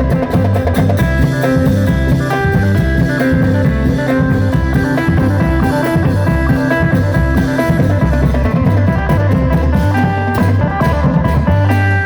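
Isan phin music: a plucked phin lute melody over bass and a drum kit beat.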